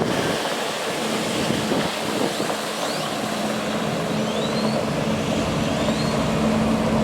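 Freightliner M2 water truck running: a steady low hum under a broad, even rushing hiss.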